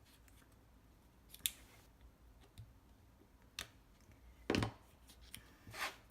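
A few separate short, crisp sounds of paper and card stock being worked by hand, with the loudest one about four and a half seconds in.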